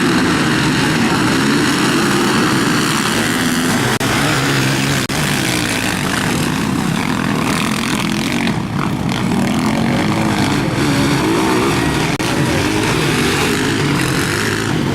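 Several motocross bikes' engines running and revving together, their overlapping pitches wavering up and down.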